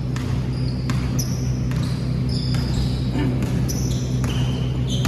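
Basketball being dribbled on an indoor court, with repeated bounces and short high sneaker squeaks over a steady low hum.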